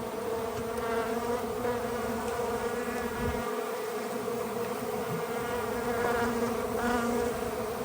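A honeybee colony buzzing steadily: a dense, continuous hum from many bees in an opened hive cavity.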